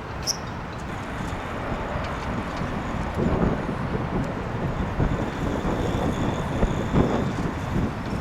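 Wind buffeting the microphone outdoors, gusting stronger from about three seconds in, with a short high chirp just after the start.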